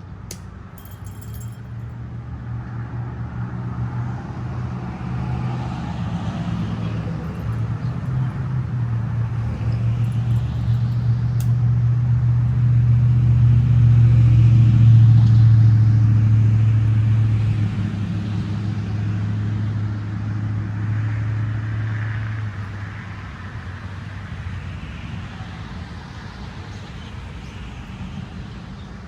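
A motor vehicle drives slowly past. Its low engine hum builds to a peak about halfway through, then fades away.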